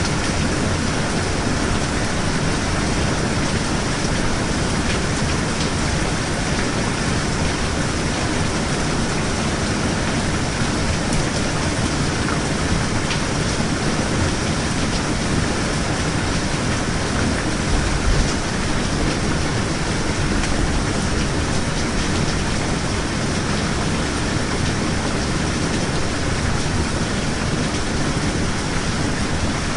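Steady rain falling, an even hiss without change, with one brief low thump about midway through.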